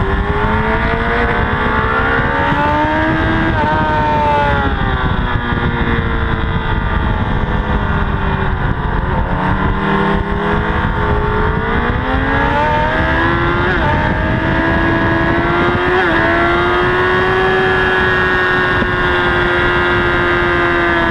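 Honda CBR1000RR's inline-four engine at high revs on track, its pitch repeatedly rising under acceleration and falling off, with heavy wind rush over the bike-mounted camera.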